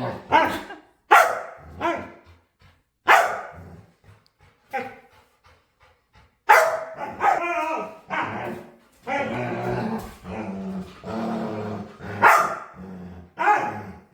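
A dog barking in play: short, sharp barks with longer drawn-out growling calls in between.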